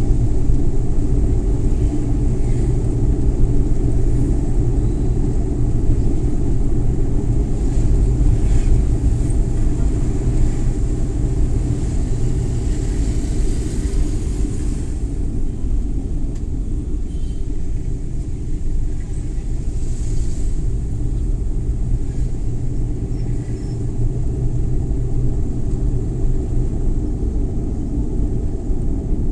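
Suzuki Every Wagon (DA64W) kei van on the move: its small engine and tyres make a steady low rumble, with a brief rise in hiss about halfway through.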